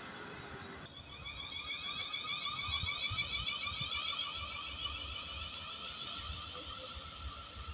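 An electronic alarm sounding: several high tones pulsing rapidly together. It starts abruptly about a second in and carries on steadily, fading a little toward the end.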